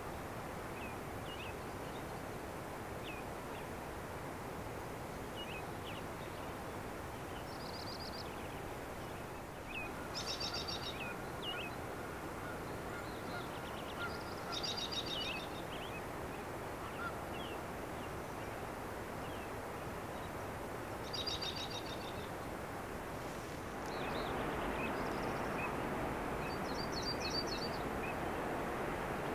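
Songbirds calling and singing over a steady outdoor background hiss: repeated short high chirps, and several short rapid trills. The background gets louder about 24 seconds in.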